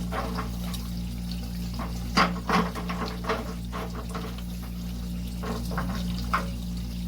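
Water running steadily as an electric water heater tank drains through a funnel, with a few sharp knocks, the loudest about two seconds in, as the new heating element is screwed into the tank.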